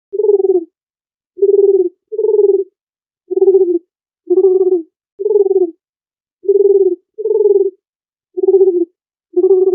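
A dove cooing: a series of about ten short, low coos, each about half a second long, some coming in quick pairs.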